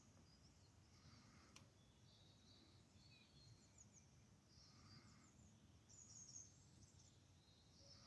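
Faint songbird calls: scattered high chirps and short trills over quiet background noise.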